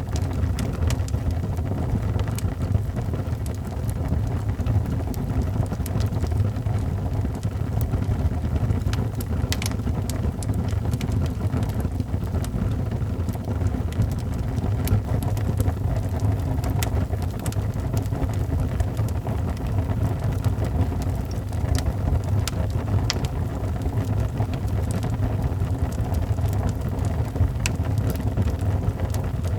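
Wood fire burning in a fireplace: a steady low roar with scattered sharp crackles and pops at irregular times.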